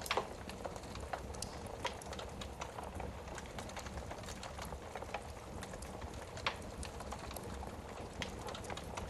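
Wood fire burning in a fireplace: a steady low rumble and hiss with irregular crackles and pops, the loudest pops just after the start and about six and a half seconds in.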